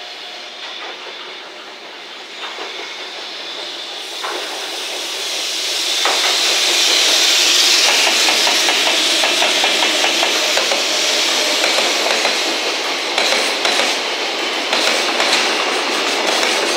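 JR Freight container train hauled by EF210 electric locomotives approaching and running past close by, getting louder until the locomotives pass about halfway through. The long line of container wagons then rolls by with a steady rumble and rhythmic clickety-clack of wheels over rail joints.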